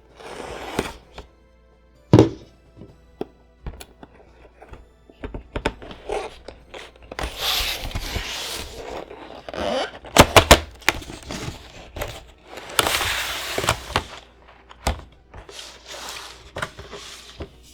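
Trading card box packaging being handled and opened by hand: irregular thunks and knocks, stretches of rubbing and scraping, and a quick cluster of sharp clicks about ten seconds in.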